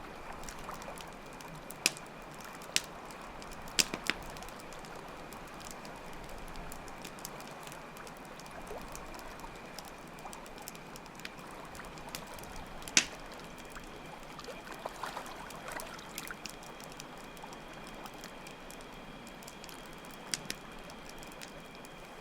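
Campfire crackling, with sharp pops scattered through it, the loudest about 13 seconds in, over a steady rush of running water. Crickets chirp in a steady high trill underneath.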